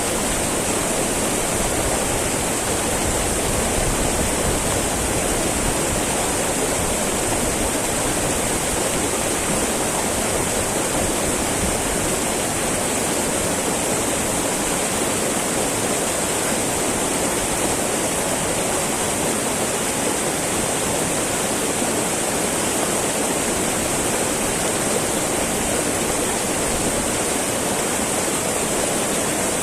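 Small mountain river babbling and rushing over rocks: a steady, unbroken sound of flowing water.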